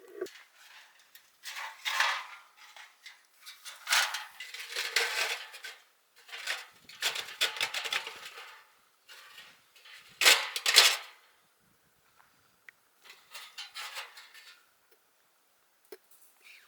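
Camp cookware and utensils being handled, clattering and rustling in about five separate bouts with short pauses between, the loudest a little past the middle.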